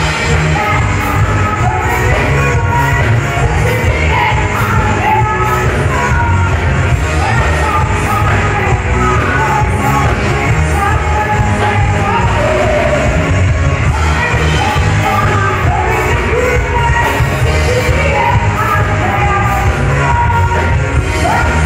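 Live band playing a rock song with a singer, loud with heavy bass, in a large room.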